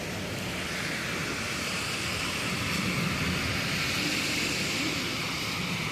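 A passing vehicle: a steady rushing noise that builds over the first few seconds and then holds.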